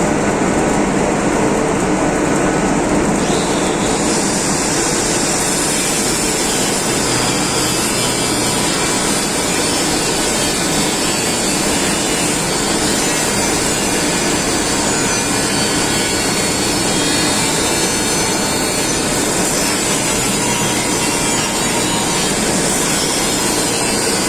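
Steady, dense noise of a power tool running without a break during repair work, its hiss turning brighter about four seconds in.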